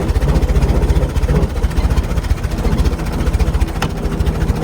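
The engine of a chain-drive 1914 fire truck hot-rodded into a race car, running with a rapid, even low pulse.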